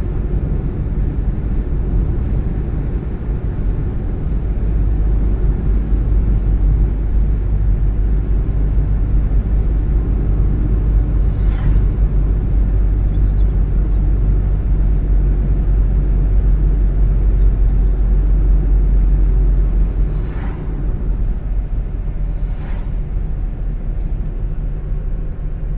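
A car driving: steady low engine and road rumble, with three brief sharp ticks about twelve, twenty and twenty-three seconds in. It gets slightly quieter about twenty seconds in.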